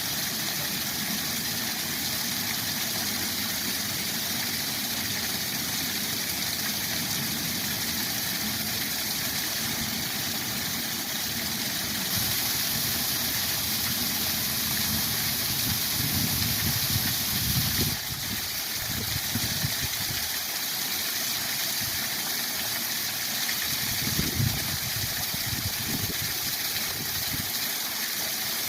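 Steady rushing of a waterfall. It grows brighter and louder for several seconds about midway, with a few brief low rumbles.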